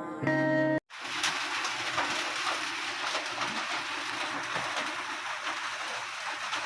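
Music ends abruptly under a second in, followed by steady rain falling: an even hiss with scattered patter of drops.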